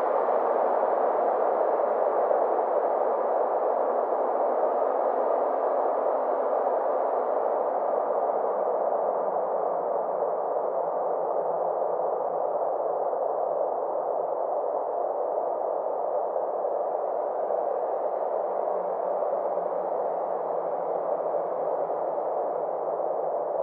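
Synthesized space-ambience drone: a steady, hushed whooshing hum whose brightness slowly dims over the middle and lifts again near the end.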